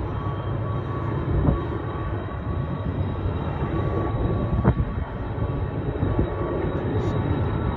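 Freight train rumbling steadily, with two sharp metallic clanks, one about a second and a half in and one past the middle.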